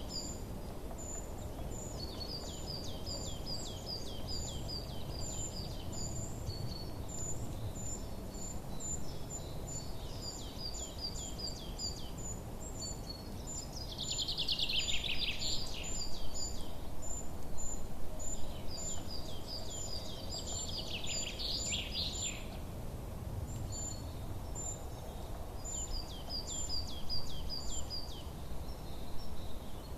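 Small songbirds chirping in quick, repeated high notes, with two louder, dense trills near the middle, over a steady low background rush of ambient noise.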